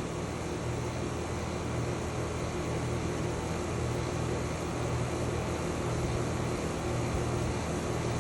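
Carrier central air-conditioner outdoor condenser units running steadily: an even rush of fan air over a low hum, with no change or shutdown.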